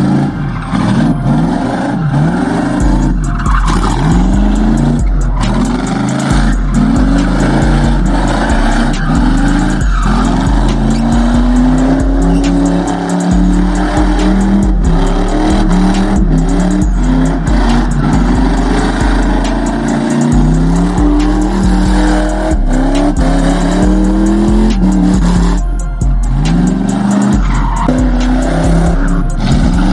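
Car engines revving again and again, with rising pitch about once a second and tires squealing, over music with a heavy, steady bass line.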